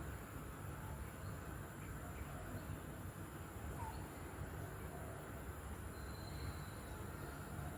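Faint, scattered bird calls, including a brief chirp about four seconds in and a thin high whistle around six seconds in, over steady background noise.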